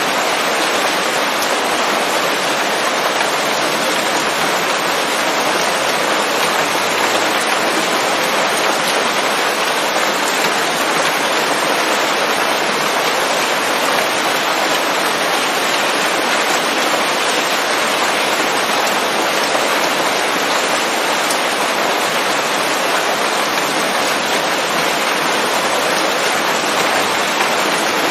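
Steady rain pattering on leaves in a forest, a dense, even hiss of drops without thunder.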